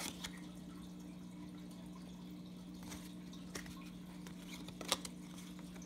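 A few sharp, separate clicks of baseball cards being flipped and handled, the loudest about five seconds in, over a steady low electrical hum.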